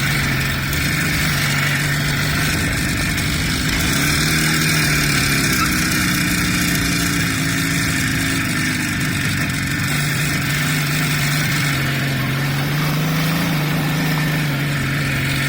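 A vehicle engine running at a steady pitch, heard while travelling. The pitch lifts briefly about four seconds in and then settles again.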